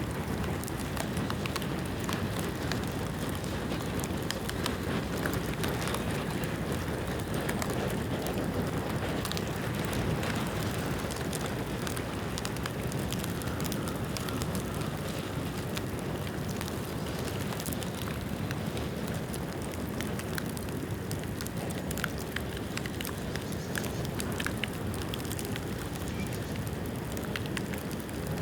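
Bamboo bonfire burning steadily, a continuous rushing noise dotted with many sharp crackles and pops from the burning rain-damp bamboo.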